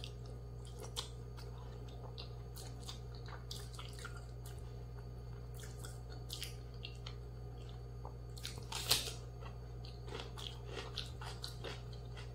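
Close-miked chewing and biting: wet mouth sounds broken by many short, crisp crunches and clicks, the loudest crunch about nine seconds in.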